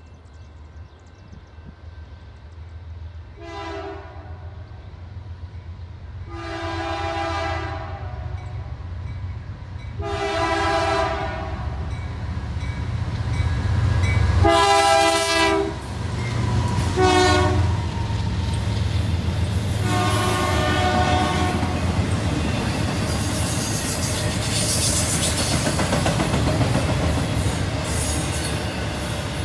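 BNSF diesel locomotives approaching and sounding a chime horn in six separate blasts, mostly long with a short one before the last, while the engines' low rumble grows louder. The double-stack intermodal cars then pass close by with a steady rush and clatter of wheels on rail.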